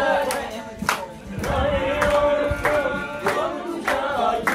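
A group of people singing a song together over a steady beat of sharp strikes.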